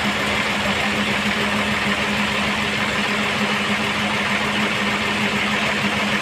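Sawmill machinery running steadily: a constant hum with a hiss above it and no change in pitch or load.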